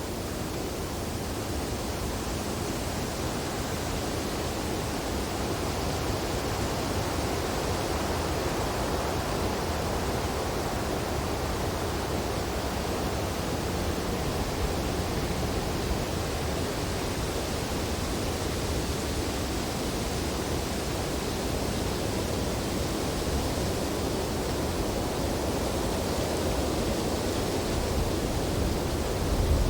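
Wind blowing through snowy tree branches: a steady rushing noise that swells slowly, with a stronger gust near the end.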